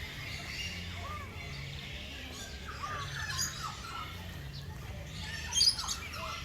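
Several birds chirping and calling: short whistles that glide up and down, with a louder burst of sharp, high chirps about five and a half seconds in. A steady low hum runs underneath.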